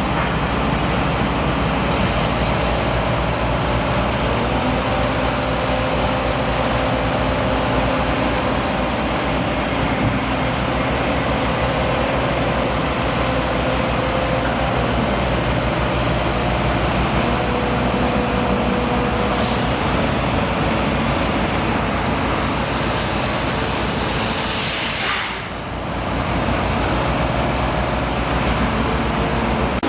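Steady engine and traffic noise, with a few steady engine tones running underneath and a brief dip in loudness near the end.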